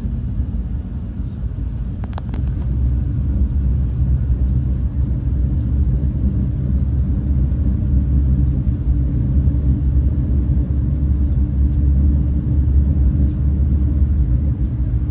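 Running noise of a Renfe Class 130 (Talgo 250) high-speed train: a steady low rumble of wheels on track, heard inside the carriage, getting a little louder about three seconds in. A brief click about two seconds in.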